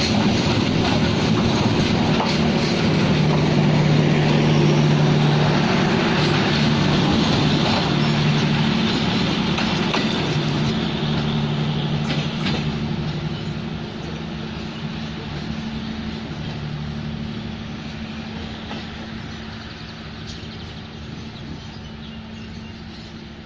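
Indonesian passenger train's coaches rolling past on the track: a rumbling wheel-on-rail noise with a steady low hum, fading away as the tail of the train recedes.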